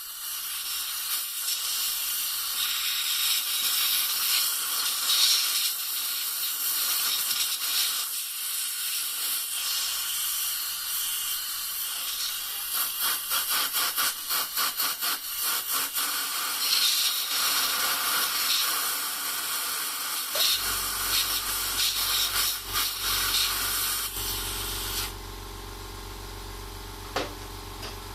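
A loud, steady hiss starts suddenly and fluttering runs through its middle. About two-thirds of the way in, the steady low hum of an engine running comes in. The hiss cuts off near the end, leaving the engine hum, most likely the snowblower's Hatz 1B40 single-cylinder diesel idling.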